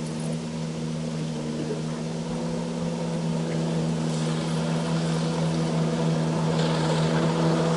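Motorboat engine running steadily on the water, slowly growing louder as it comes nearer.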